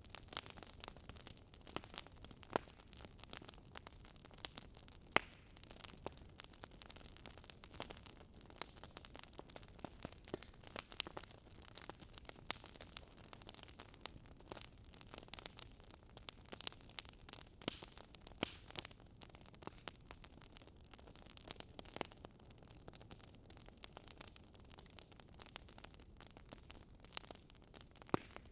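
Fire crackling: irregular sharp pops and snaps over a soft, steady hiss.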